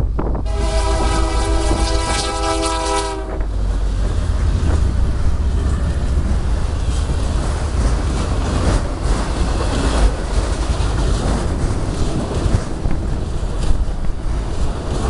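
A diesel freight locomotive's horn, with CN EMD SD75I 5776 leading, gives one long multi-tone blast of about three seconds starting just after the start. Then the train rolls past: locomotive engine rumble gives way to autorack cars' steady wheel and rail noise with scattered clicks over the joints.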